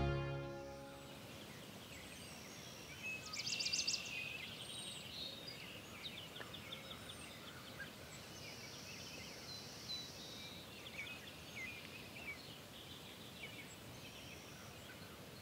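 Music fading out, then faint birdsong: scattered chirps and trills, the loudest a rapid trill about three to four seconds in.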